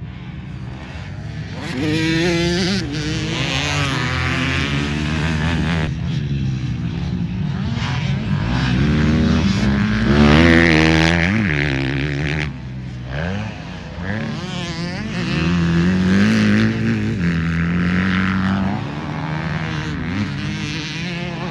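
Several motocross motorcycles racing, their engines revving up and dropping back over and over as riders accelerate and shift gears, with more than one bike heard at once and the loudest pass about ten seconds in.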